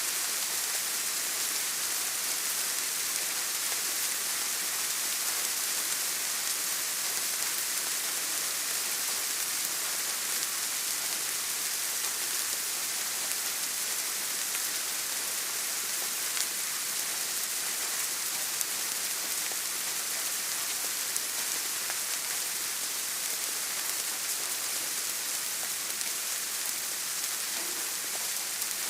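Steady rain falling: a dense, even hiss, with a few single drops ticking a little louder here and there.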